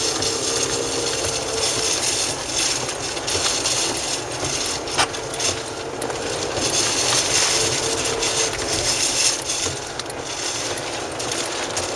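Steady rush of wind and road noise in a moving car's cabin, with a faint engine hum at times and a few light knocks.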